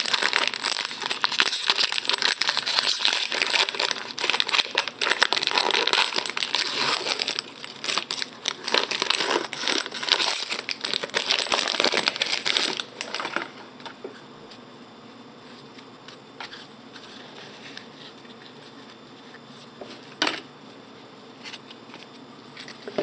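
Plastic trading-card pack wrapper crinkling and tearing as it is ripped open, for about thirteen seconds. Then much quieter rustling of the cards being handled, with a few small clicks.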